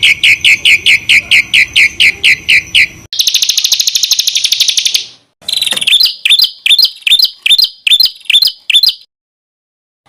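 Recorded songbird song used as masteran, edited in abrupt sections. First comes a fast run of about six down-slurred whistled notes a second, then a dense buzzy trill. That is followed by a series of sharp, clicky repeated notes about three a second, which stops suddenly about a second before the end.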